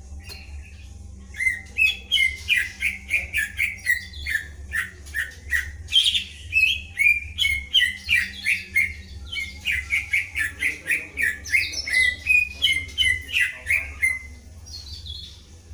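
Songbird singing a long run of sharp, repeated notes, about three a second, starting about a second and a half in and stopping about a second before the end, over a steady low hum.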